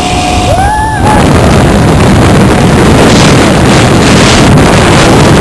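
A steady high tone and a brief swooping glide, then about a second in a loud rushing, buffeting noise of air blasting the microphone takes over and keeps up.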